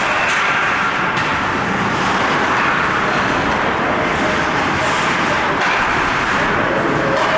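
Ice hockey rink ambience: a steady wash of crowd chatter and play on the ice, with a few sharp knocks in the first second or so.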